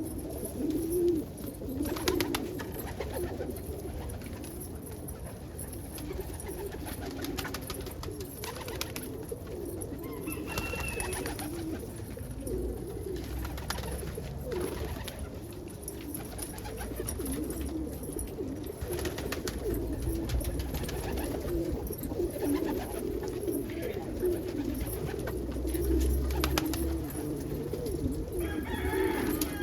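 A flock of domestic pigeons cooing together, many overlapping coos forming a steady, unbroken chorus, with a few faint clicks scattered through it.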